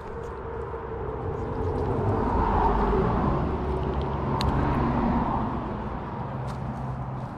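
A motor vehicle passing by, its engine and tyre noise swelling to a peak in the middle and fading toward the end.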